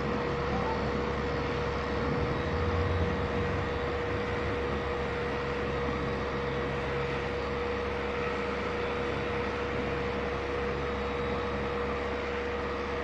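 Electric machine polisher running at a constant speed while compounding car paint, giving a steady motor hum with one unchanging tone.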